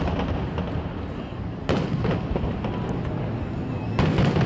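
Fireworks display: aerial shells bursting with a steady rumble and crackle, and two loud booms, one about halfway through and one near the end.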